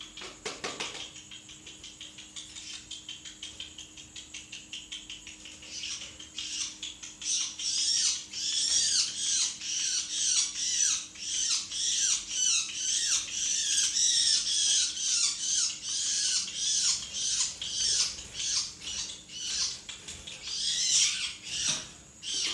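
A small bird chirping and squawking rapidly in a continuous string of high, quick, downward-sliding calls. The calls are soft at first and get much louder about six seconds in.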